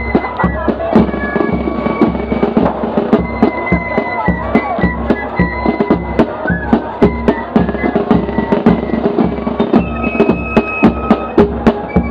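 A corps of drums band of fifes and drums playing a march, the side drum close to the microphone with a quick run of sharp strokes over steady bass drum beats and the high fife melody.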